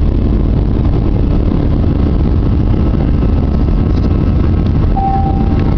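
Airbus A320-200's jet engines heard from inside the passenger cabin: a loud, steady low rumble. A brief single tone sounds near the end.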